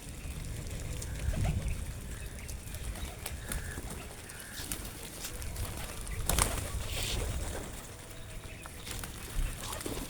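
Flock of pigeons at scattered grain, with scattered clicks of pecking and shuffling, a few short calls, and a loud flurry of flapping wings about six seconds in.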